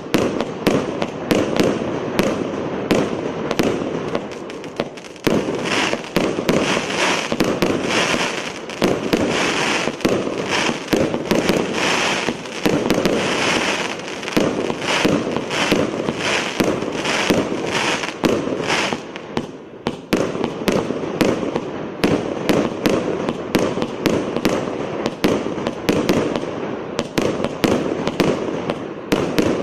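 600-shot fireworks cake firing a continuous barrage of shots, several sharp bangs a second, with brief lulls about five seconds in and again near twenty seconds.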